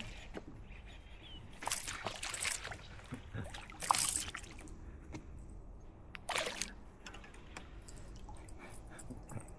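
Water splashing and dripping in a few short bursts, the loudest about four seconds in.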